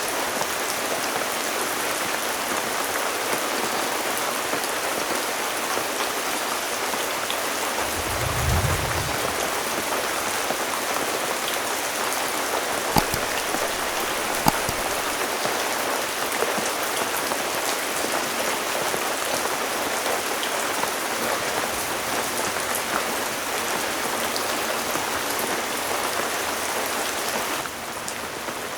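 Heavy rain falling steadily, with a short low thump about eight seconds in and two sharp knocks around the middle. The rain gets slightly quieter just before the end.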